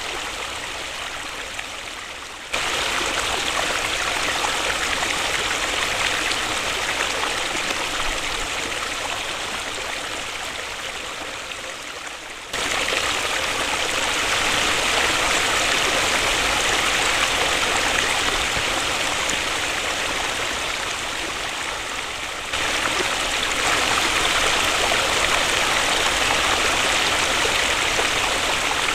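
Waterfall: steady rushing, splashing water. The level jumps up suddenly three times, about every ten seconds, each after a slow fade, as joined recordings change.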